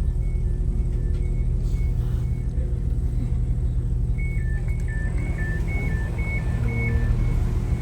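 Steady low rumble of a passenger train heard from inside the carriage. A little past halfway, an electronic two-tone beeping alternates high and low for about three seconds, with fainter single beeps in the first couple of seconds.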